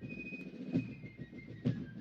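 Ceremonial military band music: drum strokes under a high, held fife or flute note.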